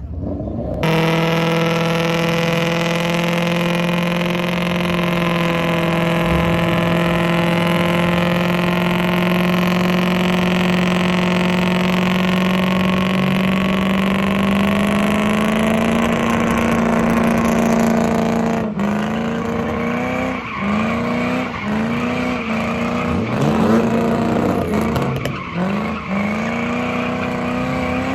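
A car doing donuts, its engine held at high revs with the tyres spinning, the pitch creeping slowly upward. About two-thirds of the way through, the revs begin to rise and fall about once a second as the throttle is blipped.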